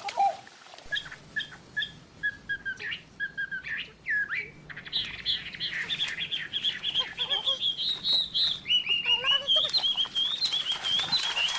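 Bird chirping: quick, short, high chirps begin about a second in and run into a near-continuous chatter from about five seconds on.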